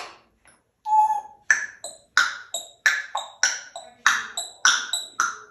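African grey parrot giving a short whistle, then a quick, even run of sharp clicking, beatbox-like mouth sounds, about three a second.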